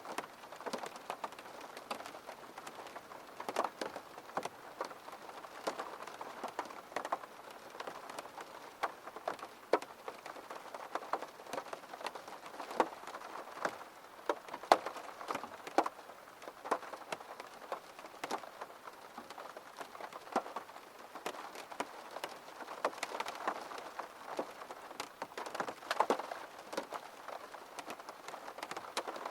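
Steady rain with many separate drops ticking sharply and irregularly on a hard surface.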